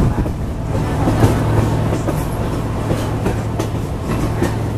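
Passenger train rolling along the track, heard from aboard: a steady rumble and low hum with scattered clicks and knocks from the wheels on the rails.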